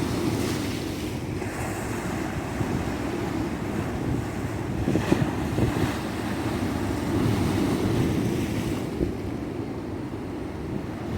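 Ocean surf breaking and washing up a sandy beach, with wind buffeting the microphone as a steady low rumble. A surge of hissing wash comes about half a second in and another about five seconds in, and the hiss thins out near the end.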